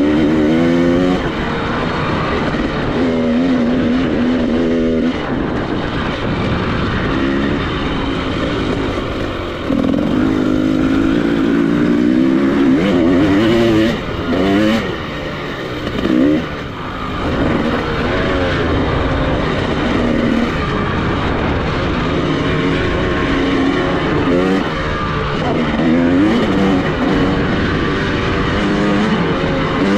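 Off-road motorcycle engine under hard riding, its pitch repeatedly climbing and dropping as the throttle is opened and closed through the gears, with a steady rush of wind noise. Two quick revs come around the middle, between brief dips in level.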